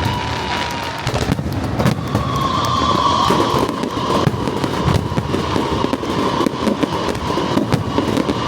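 Aerial fireworks bursting in quick succession, with many sharp bangs and crackles over a continuous rumble. A steady high tone runs underneath.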